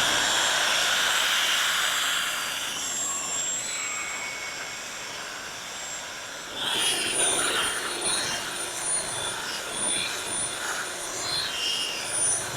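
Electric buffer polishing a boat's gel coat: a steady motor whine over a loud hiss of the pad on the hull. About halfway through the whine steps up slightly and the sound turns more uneven as the pad is worked across the surface.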